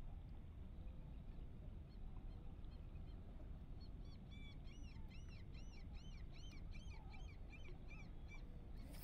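A bird calling in a quick series of shrill, arching notes, about four a second, starting around four seconds in and stopping shortly before the end, over a faint low steady background noise.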